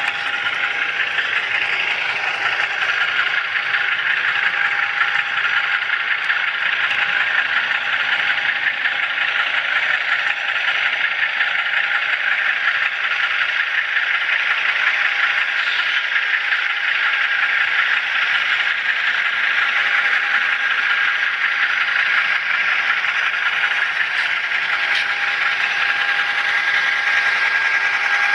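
HO scale model railroad camera car rolling along the track, heard up close: a steady rattle of small wheels on rail with a thin, steady whine.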